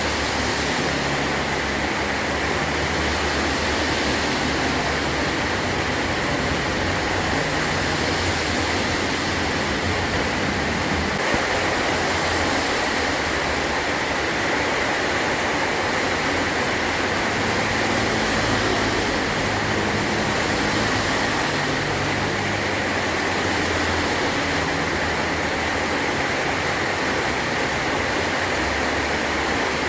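Heavy rain pouring steadily on a metal roof.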